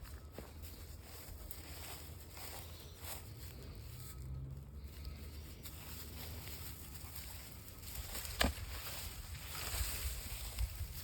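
Outdoor ambience while walking: a steady low rumble on the microphone with faint scuffs and clicks, and one sharp click about eight seconds in.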